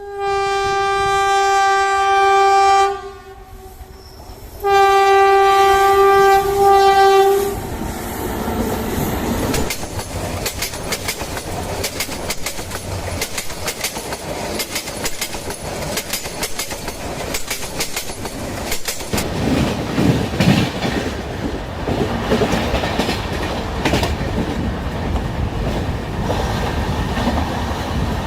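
Train horn sounding two long blasts, each about three seconds. Then the train runs on with a steady rumble and the clickety-clack of wheels over rail joints, the rumble growing heavier about two-thirds of the way through.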